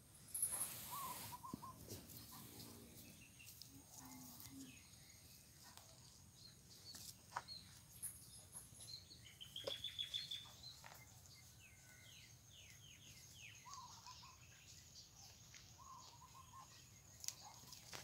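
Faint birds chirping and calling on and off, short whistled notes and quick repeated chirps. There is a brief rustle just after the start.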